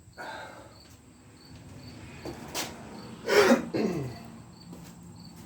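A cricket chirps faintly and evenly, about twice a second. About two and a half seconds in there is a single sharp knock, and just after it comes a louder short, rough burst that falls in pitch.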